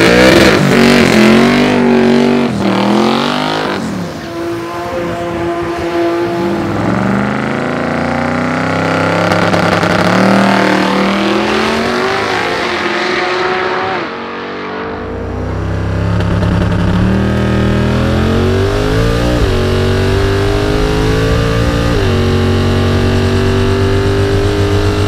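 Twin-turbo 440 cubic inch LS V8 of a Holden Commodore drag car accelerating hard, the engine note climbing and dropping back several times.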